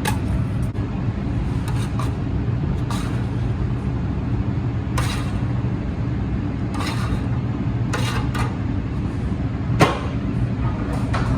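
Restaurant kitchen noise: a steady low hum of running equipment, with a few short clatters and one sharp knock near the end.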